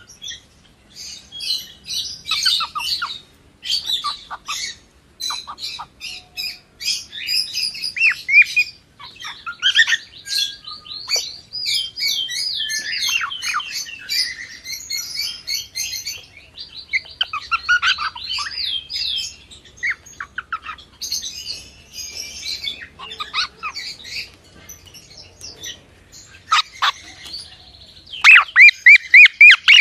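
Cockatiel chirping: irregular runs of short high chirps and warbling whistled notes, with a burst of loud, rapid repeated chirps near the end.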